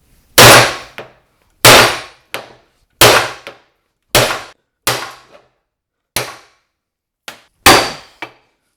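Hammer blows on the steel yoke of a truck's front axle stub shaft, driving out the U-joint bearing caps. There are about seven heavy strikes, roughly one a second, some followed by a lighter rebound tap.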